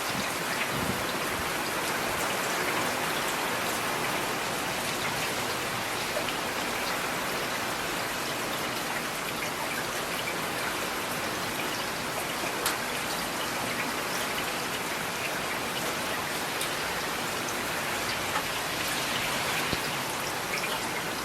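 Steady rain falling, with individual raindrops ticking on a surface throughout and one slightly sharper drop about halfway through.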